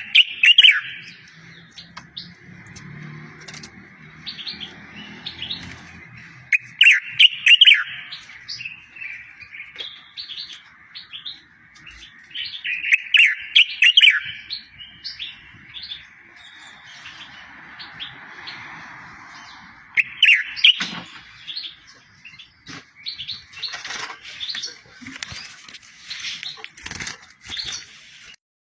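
A songbird singing: loud phrases of quick falling whistled notes about every six to seven seconds, with a softer continuous trill running between them and scattered short chirps near the end.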